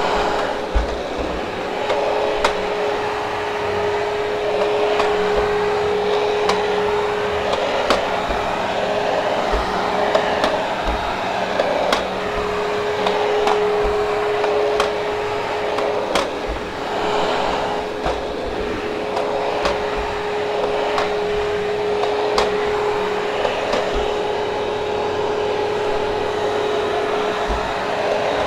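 Hoover Hushtone vacuum cleaner running steadily, its motor whine and airflow rush constant as it picks up a heavily hair-matted carpet on the stair treads. Short clicks and knocks come at irregular intervals.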